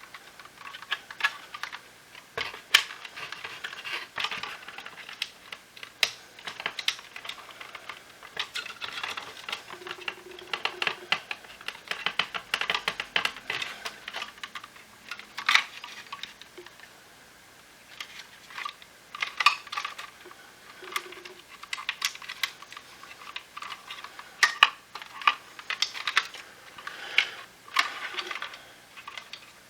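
Irregular clicks, taps and rattles of the plastic parts and small screws of a Shark IF250UK cordless vacuum cleaner being handled as it is taken apart.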